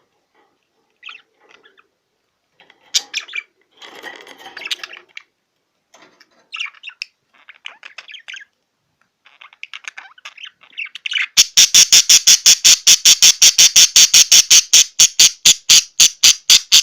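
Male budgerigar chattering in short, scattered chirps and warbles; about eleven seconds in, a fast, even run of loud clicks, about six a second, begins and runs to the end.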